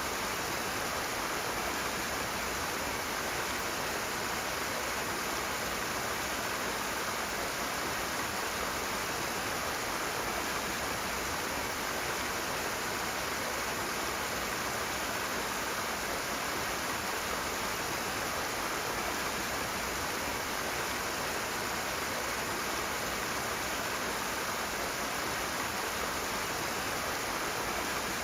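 Rushing water, a steady, even rush with no change in level.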